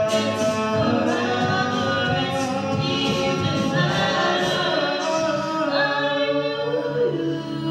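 An a cappella vocal group sings held chords in close harmony, several voices moving together with no instruments.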